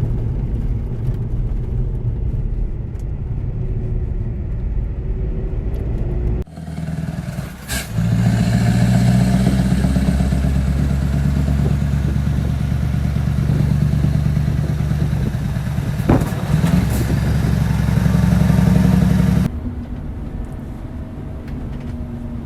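Scania R770's 16.4-litre V8 diesel engine running as the log truck drives, a steady pitched drone. The sound changes abruptly about six seconds in, when it becomes louder and fuller, and drops back to a quieter drone near the end.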